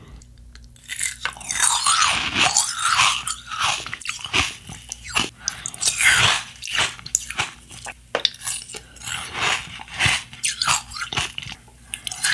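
Close-miked crunching and chewing of sweets in the mouth, many sharp crackles in irregular bursts, starting about a second in.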